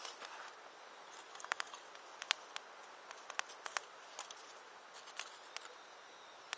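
Wood campfire crackling: irregular sharp pops and snaps over a soft steady hiss of burning.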